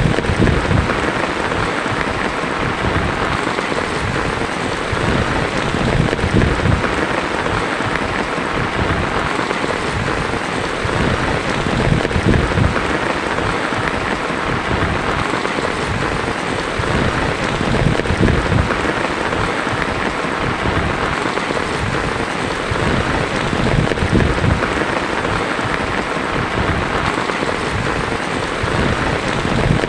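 Heavy rain drumming steadily on a tin roof, swelling slightly in loudness every few seconds.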